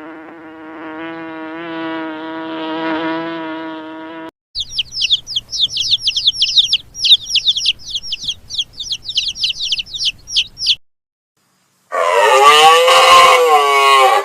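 A run of animal calls. First comes a long, steady, pitched call, then about six seconds of rapid, high bird chirps, many to the second. After a short silence, a loud rising-and-falling rooster crow begins about twelve seconds in.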